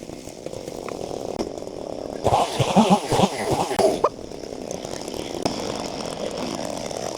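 Small petrol-engined cutting tool running, with a harder burst of revving under load in the middle, about two to four seconds in.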